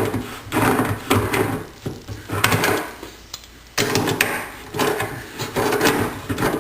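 Crescent wrench tightening the metal retaining rings on a faucet's valve stems: metal scraping and clinking in repeated short bursts, with a longer stretch near the end.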